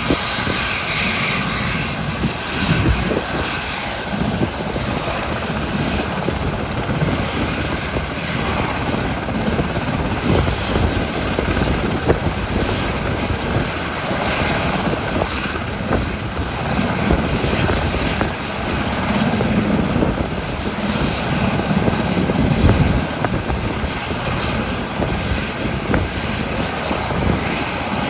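SH-60K helicopter running: steady loud rotor and twin-turboshaft noise with an irregular low thudding from the rotor blades.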